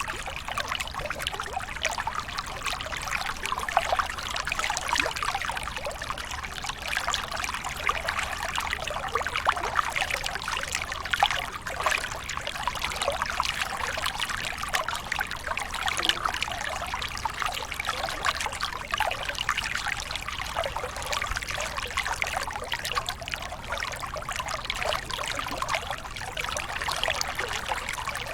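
Waterfall: water pouring and splashing steadily, a dense, even patter of small splashes with no let-up.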